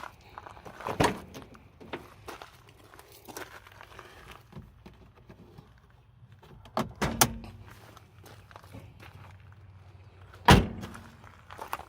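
Footsteps and a few thunks of a vehicle door being shut, the loudest about ten and a half seconds in.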